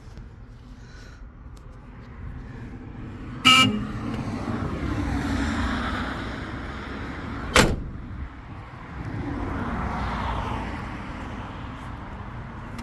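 Road vehicles passing by, two of them, each swelling and fading over a few seconds. A brief horn-like toot comes about three and a half seconds in, and a sharp knock near eight seconds.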